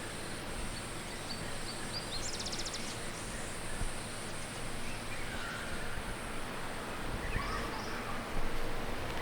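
Scattered bird calls, with a short rapid trill about two seconds in, over a steady rushing background noise.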